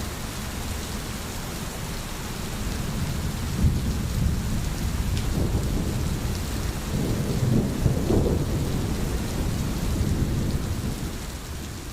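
Steady rain falling, with a low rolling rumble of thunder that swells through the middle and eases off, the whole sound fading out near the end.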